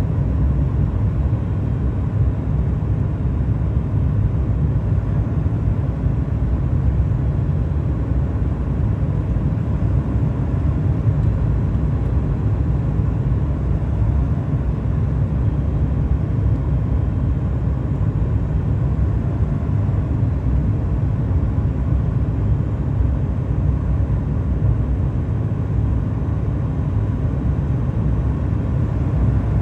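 Boeing 737 MAX 8's CFM LEAP-1B engines and airflow heard inside the cabin as a steady low rumble, unchanging throughout.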